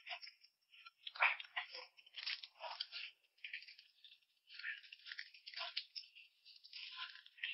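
Hot and sour noodles being slurped from a bowl: a run of short, irregular slurps, the loudest a little over a second in.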